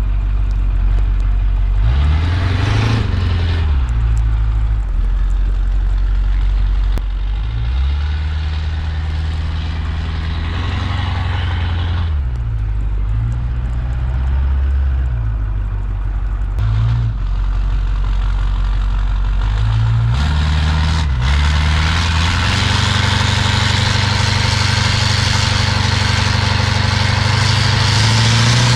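Diesel pickup truck engine revving up and dropping back again and again, then held at higher revs over the last several seconds with a rising hiss.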